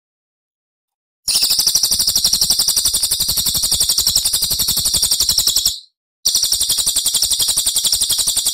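A small songbird's recorded song: a fast, even trill of high, rapidly repeated notes in two long bouts, with a sudden dead-silent gap between them where the recording has been cut and looped.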